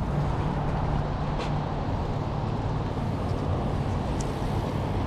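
Steady low hum of a vehicle engine running, with street traffic noise around it.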